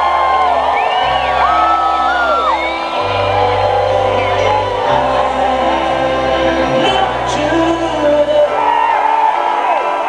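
Loud live rock music, with bass notes changing every second or so and voices whooping over it.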